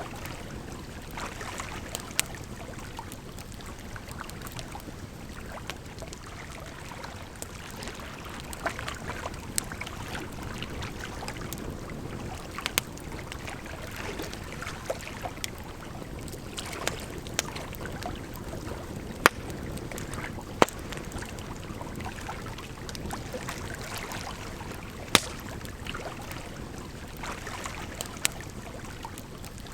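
Wood campfire crackling, with irregular sharp pops every few seconds over a steady rush of flowing water.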